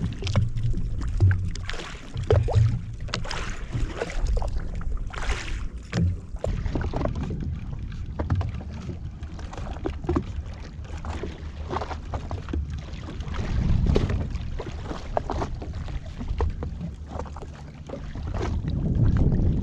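Yamaha WaveRunner jet ski engine running on the water with a steady low hum, while water splashes and slaps against the hull in many short, irregular strokes and wind buffets the microphone.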